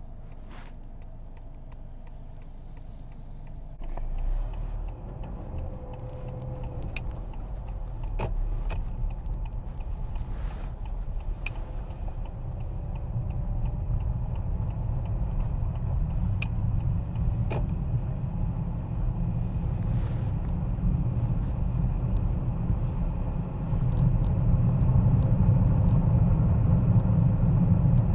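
Car cabin noise while driving on wet roads: a steady low rumble of engine and tyres that grows louder about four seconds in and again near the end, with scattered faint clicks.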